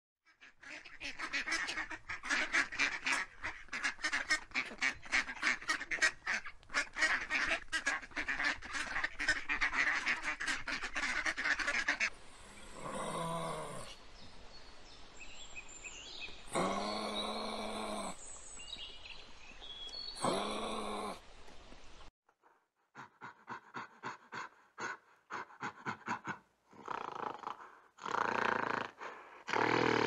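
Ducks quacking in a rapid, busy chatter for about twelve seconds. Then come three long, drawn-out animal calls a few seconds apart, and then a run of short, quick pulsed animal calls.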